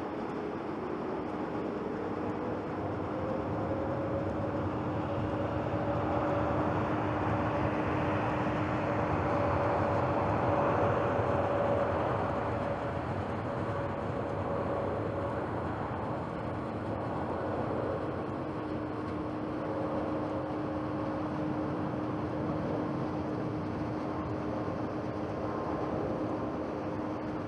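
Jet airliner engines at take-off power: a steady rushing noise with two held tones, the higher one gliding up in the first few seconds. It grows louder to a peak about ten to twelve seconds in, then eases off.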